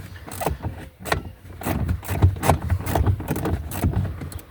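Ratchet working the seat-mounting bolts out of a car floor: a run of irregular clicks and metallic knocks.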